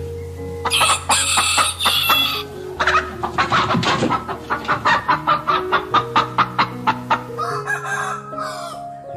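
Chickens clucking: a fast run of short calls, about three or four a second through the middle, with longer, harsher calls about a second in and near the end. Background music with held notes plays underneath.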